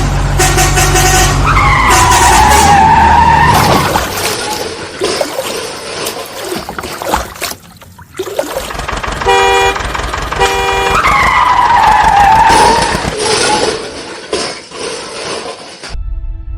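Vehicle sound effects: a running engine with a whine that dips and rises in pitch, then two short horn toots about nine and ten seconds in, after which the dipping whine comes again.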